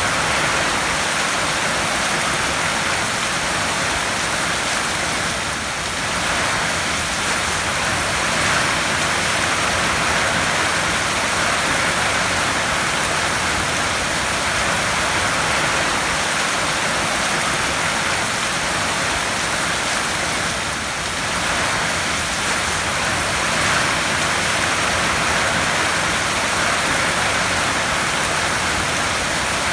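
Heavy rain falling steadily on a tin roof, a dense even hiss of countless drops on the metal sheets.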